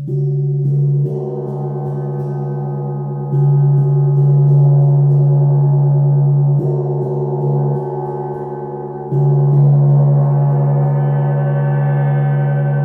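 A gong rings in a deep, sustained drone with layered overtones, and is struck again every few seconds: louder fresh strikes at the start, about a third of the way in and about three-quarters of the way through, each swelling the ringing before it settles.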